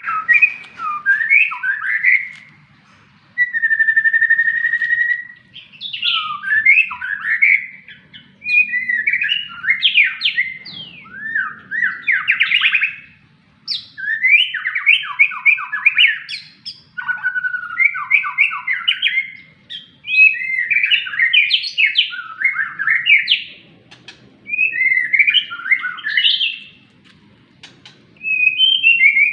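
White-rumped shama singing a run of varied, rapid whistled phrases with short pauses between them, including one held steady whistle about four seconds in.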